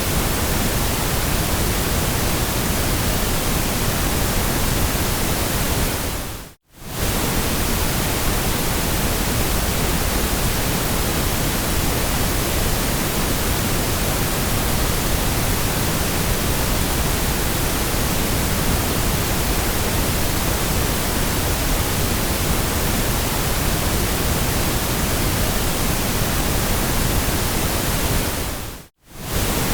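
Steady, even hiss of generated white noise spread across all pitches. Twice it fades out to silence for a fraction of a second and comes straight back, about six and a half seconds in and again near the end.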